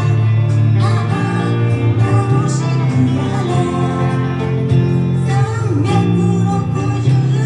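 A pop song performed by a singer with band accompaniment, guitar audible under the vocal melody.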